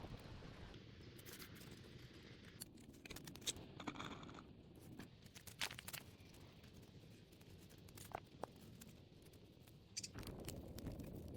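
Faint rustling and scraping with scattered small clicks and snaps, a little louder near the end.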